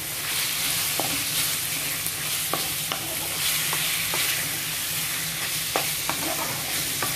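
Chicken pieces and onion sizzling in oil in a pan while being stirred with a wooden spatula, which knocks and scrapes against the pan now and then.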